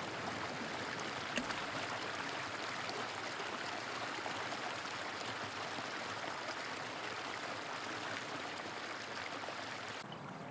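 Steady rush of flowing river water, changing abruptly about ten seconds in.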